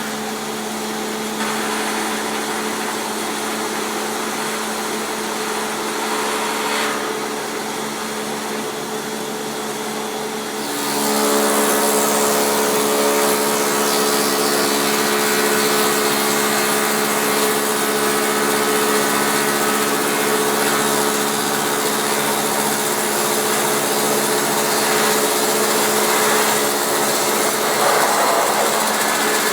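Electric log-rounding machine (Taiga OS) running with a steady motor hum; about eleven seconds in it grows louder and harsher, with a rushing cutting noise over the hum, as the cutter head works the log.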